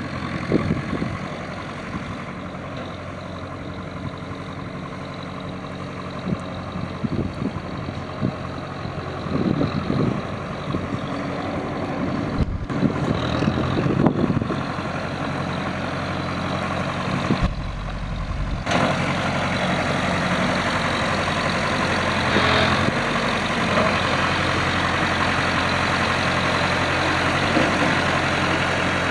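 A Massey Ferguson tractor engine running steadily at idle, with a few short bumps in the first half. It grows somewhat louder about two-thirds of the way in.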